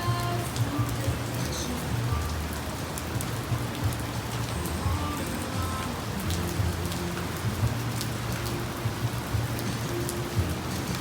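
Steady rain falling, with frequent sharp clicks of individual drops hitting close by over a constant low hum.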